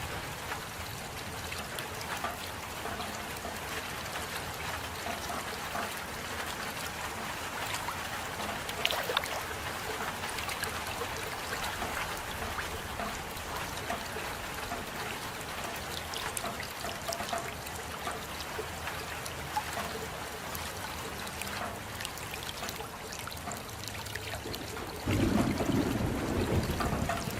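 Steady rain falling, with scattered sharper drop ticks through it. Near the end, a louder, deeper rush comes in.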